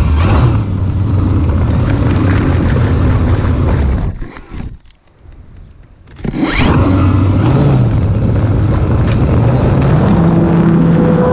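Electric motor and propeller of an E-flite Air Tractor radio-controlled plane running at high throttle. About four seconds in the throttle is cut and it goes quiet for a couple of seconds, then the motor spools back up with a rising whine and runs steadily again.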